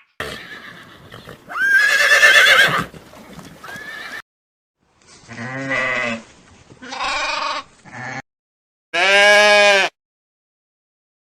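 A series of farm-animal calls, four or five separate cries of about a second each, broken by sudden silences; the loudest come about two seconds in and near the end.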